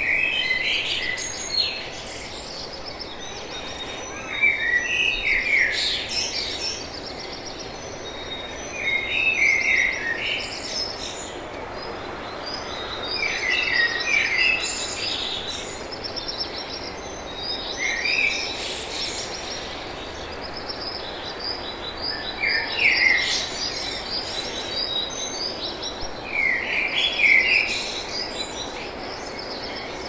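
Songbirds singing and chirping: a short song phrase comes back about every four to five seconds among many higher, quicker chirps, over a steady background hiss.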